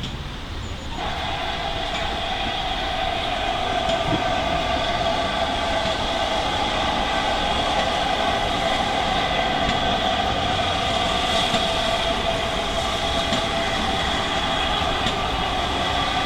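Steam locomotive whistle held in one long, steady, unbroken blast, starting about a second in, over the low rumble of the train.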